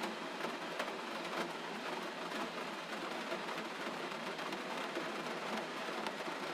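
Gentle rain falling steadily, an even hiss with faint scattered drop ticks.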